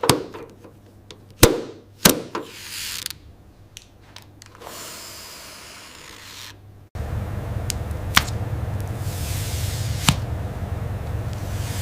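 Workshop handling sounds: a few sharp clicks and taps of small parts being handled. About seven seconds in, a power tool starts abruptly and runs steadily with a low hum and a hiss.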